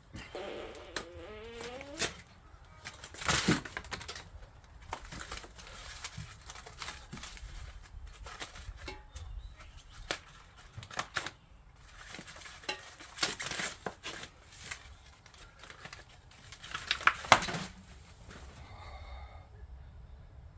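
Packing material and bike parts being handled while unboxing an e-bike: irregular crinkling and rustling with sharp clicks and knocks, and a short squeak about a second in.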